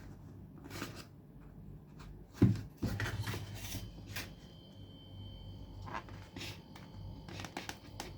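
Hands handling and trying to open a GoPro Hero 12's packaging: scattered clicks, scrapes and rustling, with one louder knock about two and a half seconds in.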